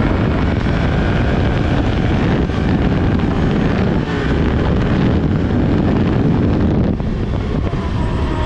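Can-Am 850 ATV's V-twin engine at full throttle on a top-speed run, mostly buried under loud wind rushing over the microphone. The level dips briefly about seven seconds in.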